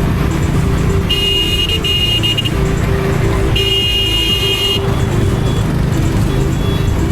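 Honda H'ness CB350's single-cylinder engine running steadily under way, with a vehicle horn honking twice, about a second in and again about three and a half seconds in.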